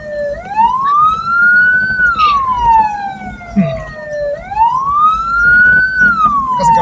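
Siren on a hearse wailing in slow sweeps, each rising for under two seconds and falling for a little over two, twice, over a low vehicle rumble.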